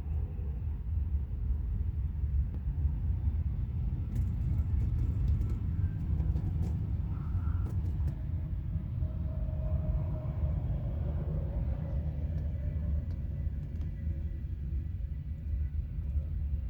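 Steady low rumble of interstate highway traffic, with one passing vehicle's hum swelling and fading about halfway through.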